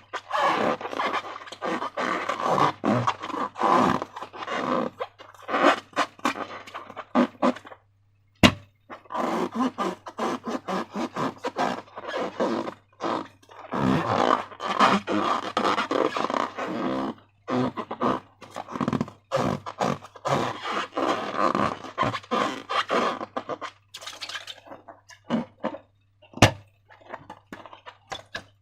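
Hands working slime with rubber balloons: wet squelching, rubbing and scraping in uneven bursts, with short pauses and two sharp clicks, one about eight seconds in and one near the end. A faint steady hum runs underneath.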